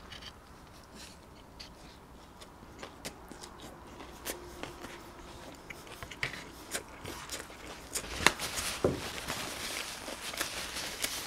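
Close-miked chewing of bread, with small wet mouth clicks and soft crunches and a sharper click about eight seconds in. Over the last few seconds a paper napkin rustles as it wipes the mouth.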